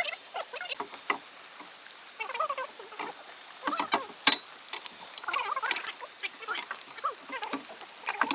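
Many short, squeaky animal calls overlapping, with scattered sharp clicks.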